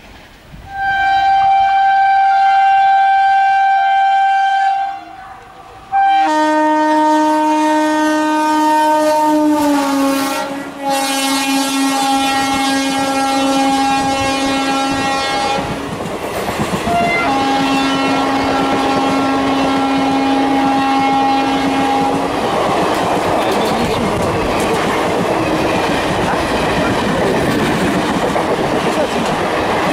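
Indian Railways locomotive horn sounding as a train comes through at speed: one steady blast, then a longer, louder, multi-note blast whose pitch drops about ten seconds in as the locomotive passes, and a third blast. After that, the coaches rushing past make a steady rolling noise.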